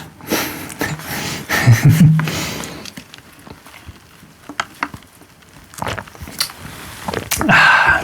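Close-miked eating sounds: slurps and mouth noises in bursts, with a few small clicks in between.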